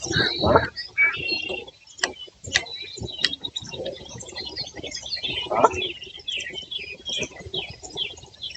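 Birds chirping: many short, high chirps and quick sweeping notes in rapid succession, with a louder, lower sound about half a second in and again a little past the middle.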